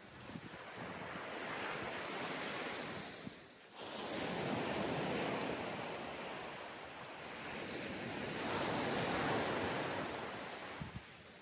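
Ocean surf on a beach: waves breaking and washing in, the noise swelling and fading about three times.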